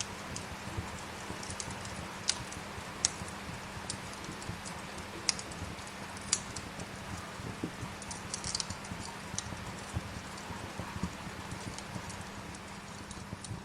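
Wood fire crackling, with sharp pops every second or two, over a steady hiss of rain.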